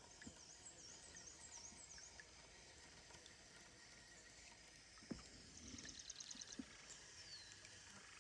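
Quiet outdoor ambience with faint birdsong: a quick run of about six high whistled notes in the first two seconds, then a short fast trill around the middle and one falling note. A single soft knock comes about five seconds in.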